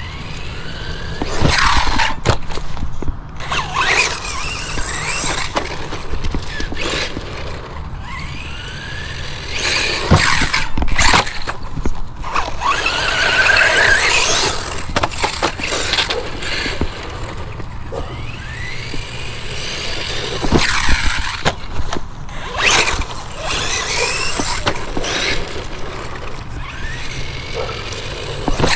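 Hosim HB17 1/16-scale brushless RC truck driving hard, its electric motor whining and sweeping up and down in pitch with the throttle, over and over. Bursts of rushing noise come in with the runs.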